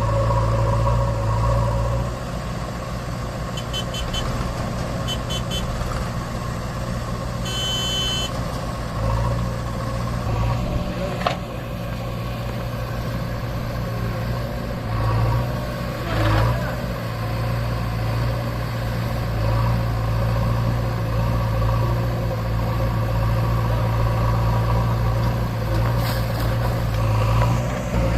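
Deutz-Fahr tractor's diesel engine running steadily under load while hauling a fully loaded trolley, its note swelling a few times. Short high beeps come about 4 and 5 seconds in, and a longer high tone near 8 seconds.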